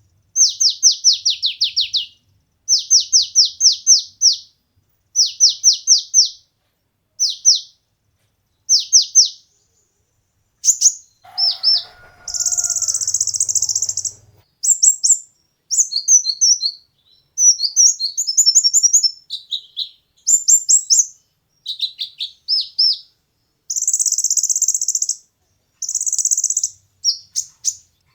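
Sunbird known as kolibri ninja (konin) singing: high, quick groups of falling chirp notes repeated every second or two, then buzzy rattling phrases and varied twittering in the second half.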